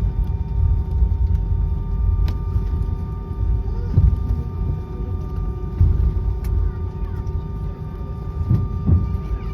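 Airbus A320 cabin noise on the ground after landing: a continuous low rumble with several steady pitched hums from the aircraft's systems.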